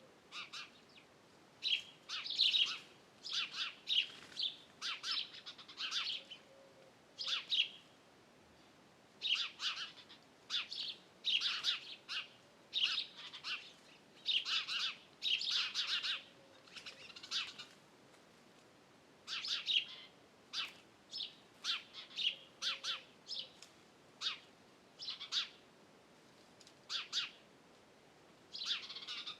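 Wild songbirds chirping and singing in quick clusters of short, high calls, with short pauses between bursts.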